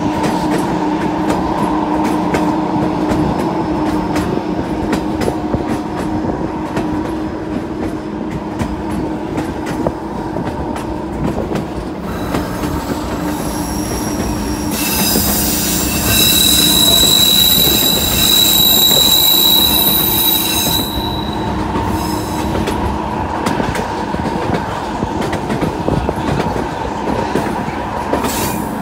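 Narrow-gauge passenger train running along the track, its wheels rumbling and clicking steadily over the rails. About halfway through, the wheels squeal loudly and shrilly against the rails for several seconds, then drop back to the rolling noise.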